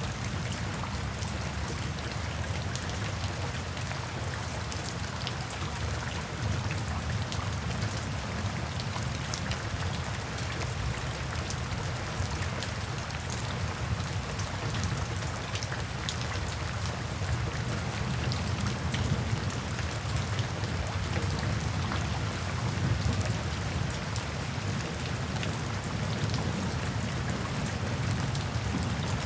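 Steady rain falling, with individual drops ticking on a surface over a low rumble.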